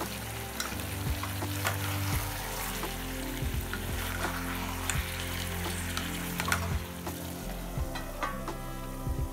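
Thick mutton and potato curry sizzling in a metal kadai while a wooden spatula stirs and scrapes through it, with many small knocks and clicks against the pan.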